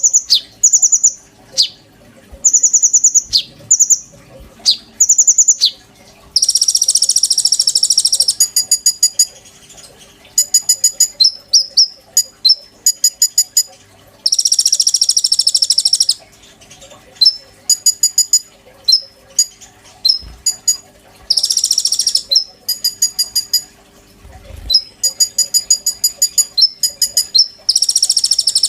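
A konin songbird singing loudly and continuously. Rapid runs of short, high, clipped chirps alternate with harsh buzzy chattering phrases of a second or two every several seconds.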